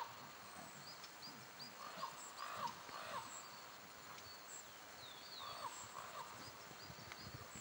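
Faint chirping of small songbirds: short high notes repeated loosely throughout, with occasional short lower notes that drop in pitch, over a soft outdoor hiss.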